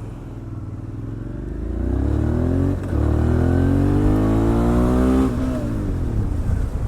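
Motorcycle engine accelerating out of a U-turn: the pitch climbs, dips briefly at a gear change about three seconds in, climbs again, then drops as the throttle is eased off a little past five seconds.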